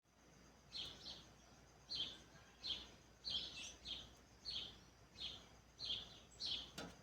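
A bird calling over and over: short, high chirps, about a dozen of them, one every half second to a second, over faint background noise.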